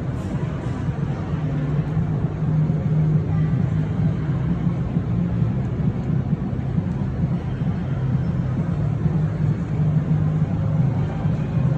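Steady low rumble of a running vehicle, even throughout with no revving or sudden events.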